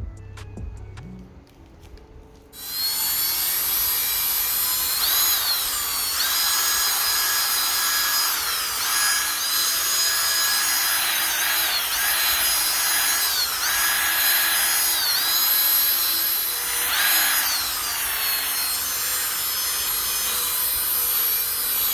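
Power drill spinning a polishing pad, buffing wax on a plastic headlight lens. It starts about two and a half seconds in, and its whine dips in pitch several times as the speed eases off and comes back up.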